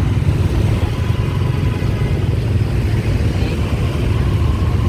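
Motorbike riding along at a steady pace, heard from the pillion seat: a continuous low engine and road rumble.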